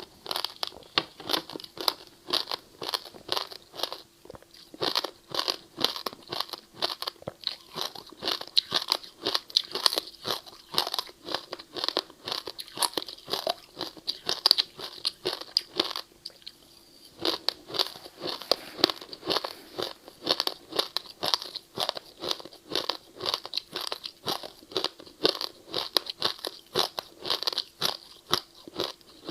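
Ice being bitten and crunched between the teeth close to the microphone: a fast, dense run of sharp crunches, with a brief pause a little past the middle.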